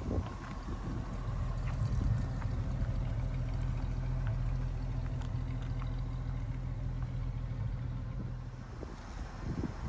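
1976 Chevrolet Blazer engine running steadily at a low, even speed, with a few faint clicks over it.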